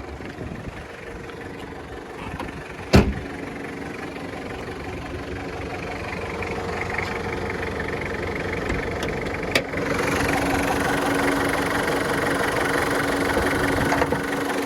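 Toyota 2.4 litre turbo diesel (2L-T) idling steadily, with a sharp clunk about three seconds in and another near ten seconds as the bonnet is released and raised; the engine is louder once the bonnet is open.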